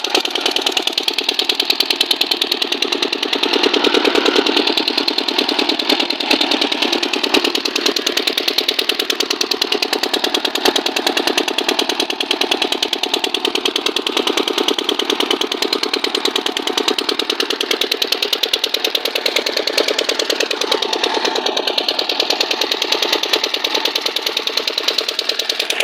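Engine running on gas fuel, firing steadily at a fast, even rate without a break.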